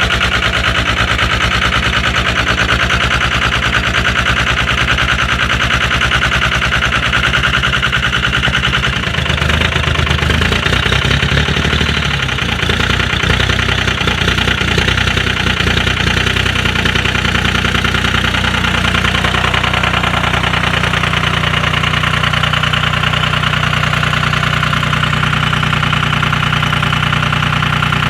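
Diesel engine being cranked in deep frost with rapid, even starter pulsing, catching after about nine seconds, running rough and uneven for a few seconds, then settling into a steady idle.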